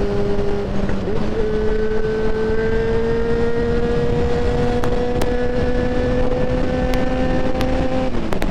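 Yamaha XJ6N motorcycle's 600 cc inline-four engine pulling under throttle, its pitch dipping briefly about a second in, then climbing slowly for several seconds before dropping near the end, with steady wind noise and a few sharp clicks.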